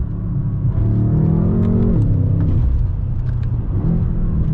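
BMW M5 F10's Stage 1 tuned twin-turbo V8, heard from inside the cabin, accelerating in Sport mode: the revs climb for about a second, fall away a little past two seconds in, then climb again near the end.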